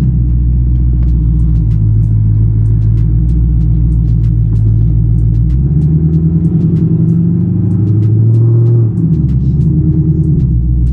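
2024 Ford Mustang GT's 5.0-litre V8 running at low speed, heard from inside the cabin. Its note shifts up about six seconds in and drops back about nine seconds in as the throttle changes.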